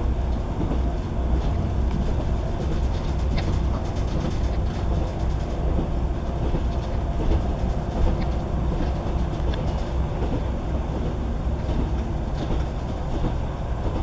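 Class 158 diesel multiple unit running at speed, heard from inside the passenger carriage: a steady low rumble of wheels on rail with occasional faint clicks from the track.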